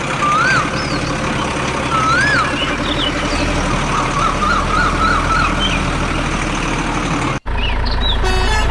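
Tractor engine running steadily, with birds chirping over it. The sound cuts out briefly about seven seconds in and resumes with a changed tone.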